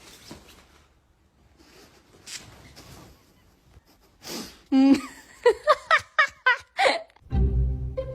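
A person laughing in a quick run of short breathy bursts after a few seconds of faint breathing. Low music comes in just before the end.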